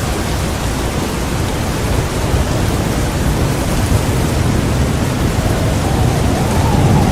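Heavy rain pouring steadily, under a low rolling rumble of thunder that builds and is loudest near the end.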